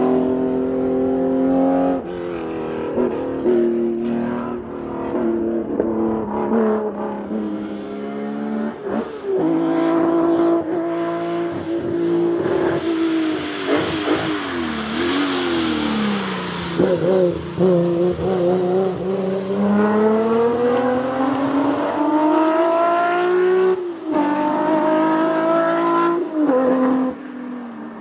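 Nissan 370Z's 3.7-litre V6 driven hard, its note climbing with the revs and dropping sharply at each gearshift, several times over. Around the middle the revs sag and build again under a hissing rush of tyre or wind noise.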